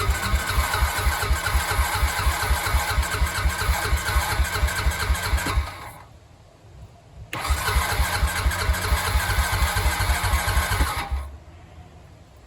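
Honda ATV being cranked on its electric starter in two attempts of about five and four seconds, a steady rhythmic chugging each time, and the engine never fires: a hard-starting, flooding engine that will not catch.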